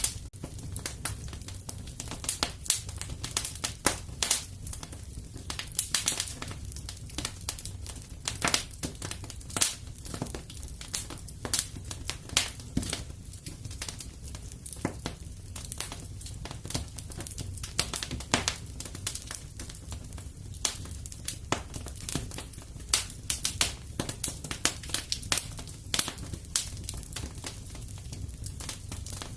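Wood fire crackling in a fireplace: irregular sharp pops and snaps several times a second over a steady low rumble.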